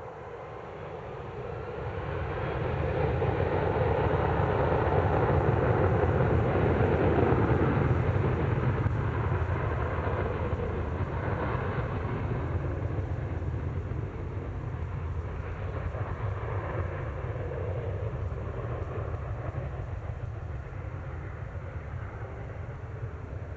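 Jet airliner's engines passing close by: a steady rushing noise that builds over the first few seconds, peaks, then slowly fades away.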